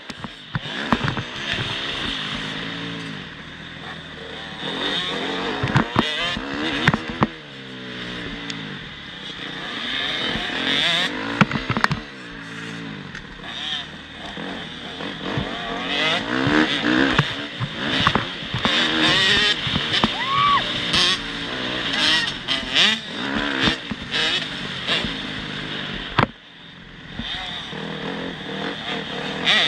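Motocross dirt bike engines revving up and down again and again, with many sharp knocks along the way.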